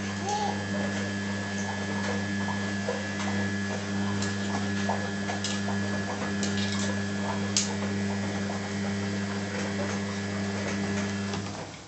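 Washing machine running with a steady electric hum and scattered light clicks, cutting off near the end.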